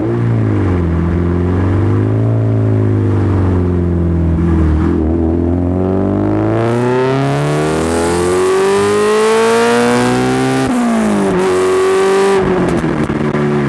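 Exhaust note of a Honda B20 four-cylinder with a VTEC head, swapped into an EF Civic, with no intake noise. The revs fall and rise, then climb steadily for about five seconds, drop sharply, and hold before dipping again near the end.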